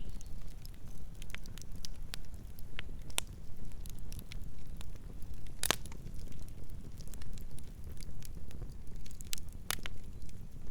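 Campfire burning: a steady low rumble of the flames with irregular sharp crackles and pops of burning wood, one loud pop a little past halfway and another near the end.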